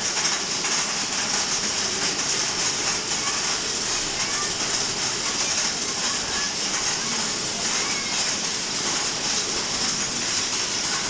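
Mine-train roller coaster cars running along the track, a steady rattling rumble with a constant high hiss over it.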